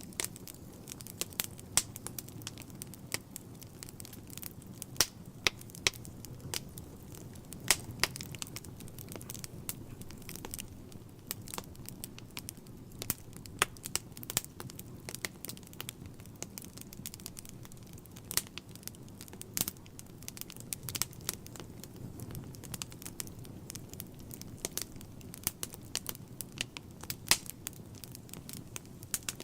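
Wood fire burning in a fireplace: a low steady rumble of flame with frequent sharp, irregular crackles and pops from the burning logs.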